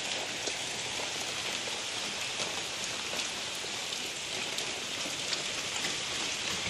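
Heavy rain falling steadily, with a few individual drops ticking sharply on nearby surfaces.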